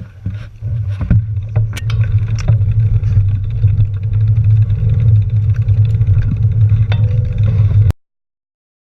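Low, steady vehicle rumble with scattered knocks and clicks, cutting off suddenly near the end.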